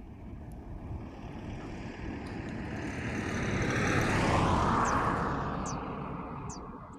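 A vehicle passing by, growing louder to a peak about four seconds in and then fading away.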